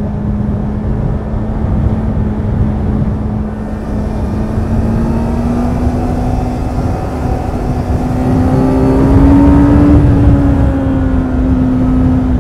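Kawasaki Z900's inline-four engine running at a steady cruise, its pitch rising gently about eight seconds in and easing back near the end, over a steady low rush of wind and road noise.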